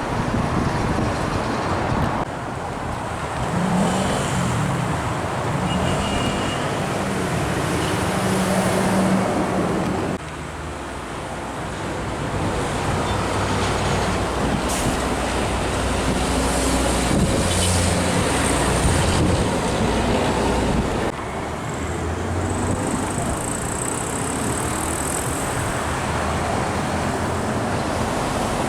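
Heavy diesel trucks driving past in steady road traffic. The engine notes rise and fall in steps as they pull away, and the sound changes abruptly a few times.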